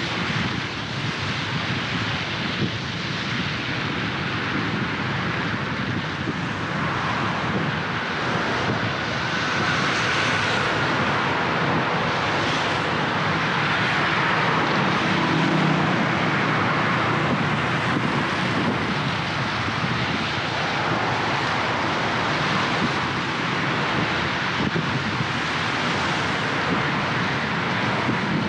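Road noise from a car driving through city traffic on wet streets: a steady hiss of tyres and engines. It grows a little louder around the middle, with a faint whine passing by.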